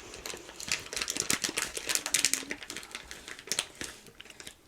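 Rapid, irregular crisp clicks and taps close to the microphone, ASMR-style, thinning out near the end.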